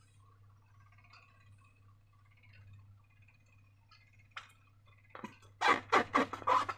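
Slime being worked by hand: faint sticky crackles at first, then from about five seconds in a rapid run of loud, crackling squishes, several a second.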